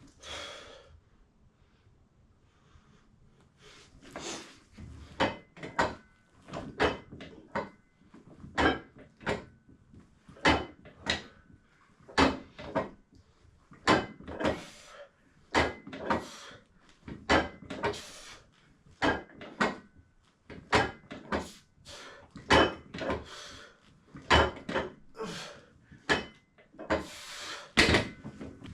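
Repeated clunks and knocks of home-gym workout equipment during a set, one or two every second or so and often in close pairs, after a few quiet seconds.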